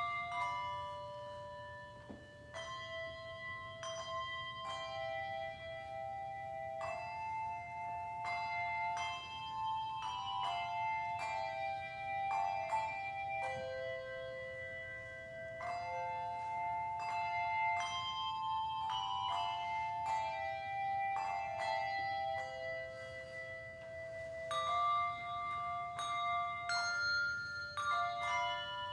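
Handbell choir playing a slow melody, each bell struck and left ringing on so the notes overlap into chords.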